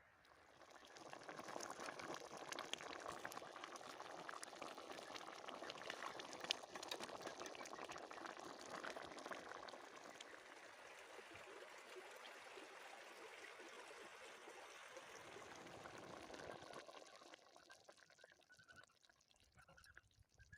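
A steady liquid sound from the sloe jam being made, starting about a second in and fading away over the last few seconds.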